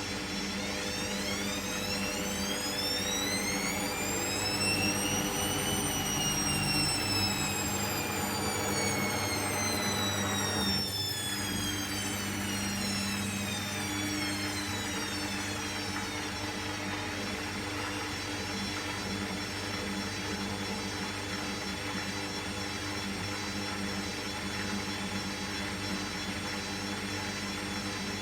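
Hoover washing machine in its final spin: the drum motor's whine rises in pitch for about six seconds, then falls away slowly for about ten seconds, and begins rising again near the end, over a steady hum.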